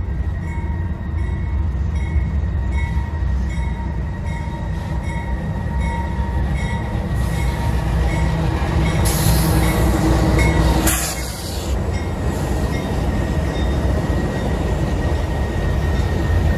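CSX freight train hauled by GE AC4400CW diesel locomotives approaching and passing, with a heavy engine and rail rumble. A bell rings in a steady rhythm for the first half, a loud rush comes as the locomotives pass about nine seconds in, and the hopper cars then roll by with a steady high wheel squeal.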